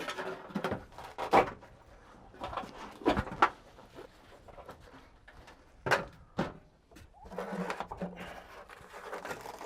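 Scattered sharp knocks and clunks of loose parts and hardware being handled and tossed out of a light aircraft's cabin, with a low, wavering hum for about a second near the end.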